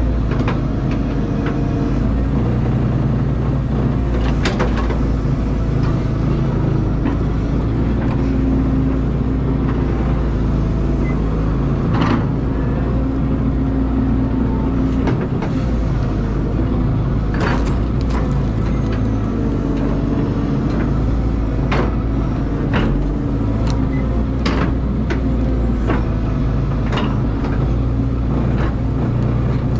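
Caterpillar excavator's diesel engine running steadily, its pitch and load shifting as the hydraulics work, with scattered sharp knocks and clanks about every few seconds.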